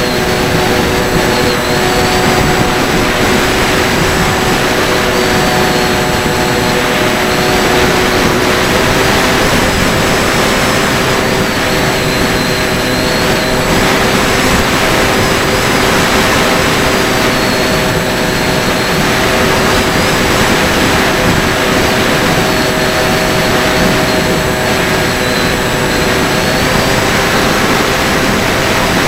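Electric motor and propeller of a Bixler 3 foam FPV plane running at a steady throttle: a constant whine that shifts slightly in pitch now and then, over a steady rushing noise.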